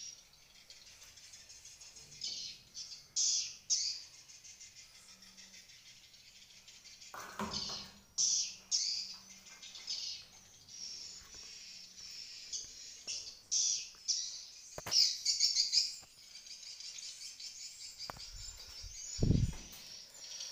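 Swiftlets chirping rapidly and repeatedly in short high trills inside a swiftlet nesting house. A couple of low thumps come through, around a third of the way in and near the end.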